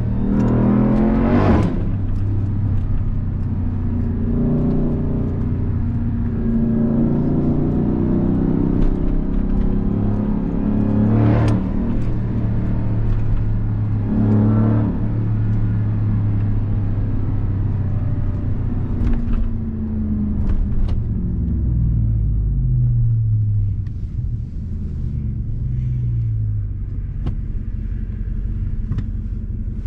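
2021 Ram 1500 TRX's supercharged 6.2-litre Hemi V8 driving, heard from inside the cab: the engine note rises under acceleration and drops back several times as it pulls through the gears, with a few sharp clicks along the way.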